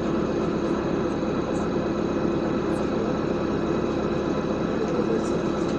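LiAZ 5292.65 city bus's engine running steadily, heard from inside the passenger cabin as an even, low drone with road noise.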